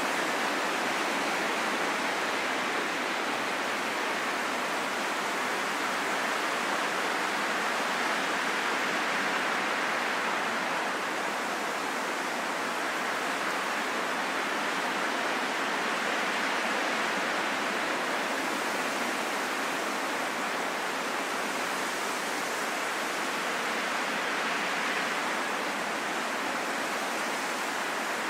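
Steady wind, an even rushing that swells and eases slowly and gently.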